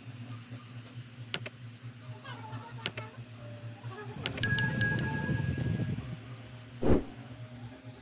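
Electric desk fan running with a steady low motor hum. About four and a half seconds in, a short bright electronic ding sounds over a brief rush of noise, and near the end there is a single dull thump.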